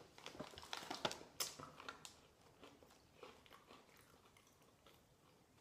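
Faint mouth crunching and chewing of crunchy cheese-flavoured corn snacks (Cheetos Crunchy). A run of crisp crunches in the first couple of seconds thins out to quieter chewing.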